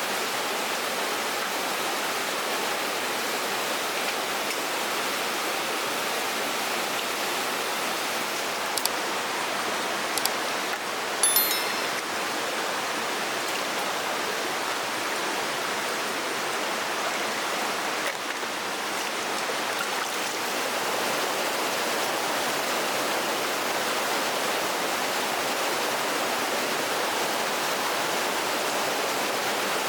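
Steady rushing of flowing water. A few short, sharp clicks come about a third of the way in.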